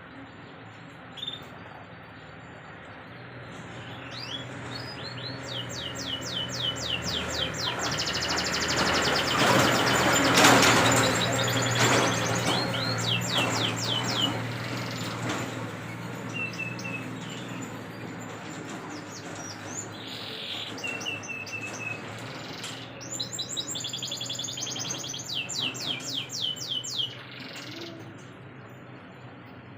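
Domestic canary singing: long trills of rapid, repeated falling high notes in two bouts, broken by a few short steady whistles. A broad rushing noise swells and fades under the song in the middle.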